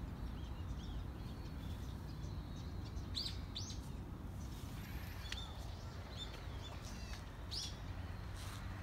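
Small birds calling in short, high chirps every second or so, the clearest a little after three seconds in and again near the end, over a steady low outdoor rumble.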